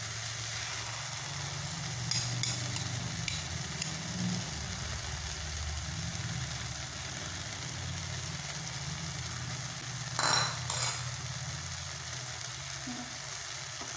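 Beaten egg sizzling steadily as it fries on chopped okra, onion and tomato in a steel pan, with a few light clicks about two seconds in and a short louder scrape about ten seconds in.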